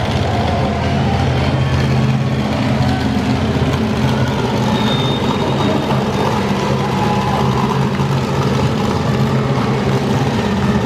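Monster truck engine running steadily at low revs, a deep idle.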